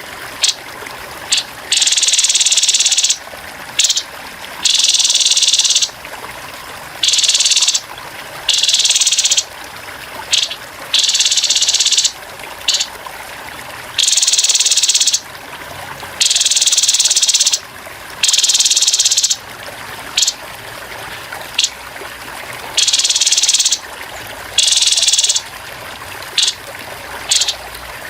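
Grey-headed babbler giving harsh, rasping buzzes in repeated bursts, each from a fraction of a second to over a second long, at uneven gaps, over a steady trickle of running water.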